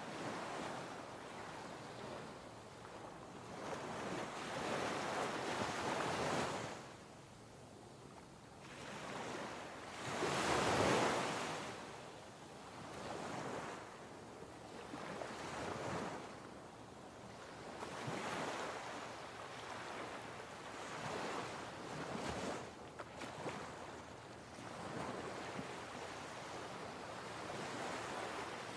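Ocean surf washing in and out, the rush of the waves swelling and fading every few seconds, with the biggest surge about eleven seconds in.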